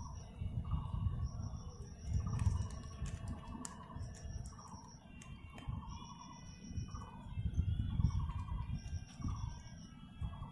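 Birds calling repeatedly: warbling notes recurring every second or two, with a high steady trill of about a second repeating through it, over an irregular low rumble.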